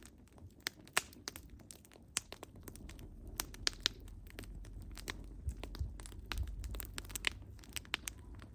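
Wood fire burning: irregular sharp crackles and pops of burning logs over a low steady rumble of flames.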